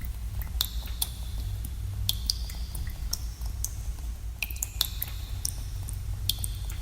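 Water drops falling into pools in a cave, irregular echoing plinks, one or two a second, each with a short pitched ring, over a steady low rumble.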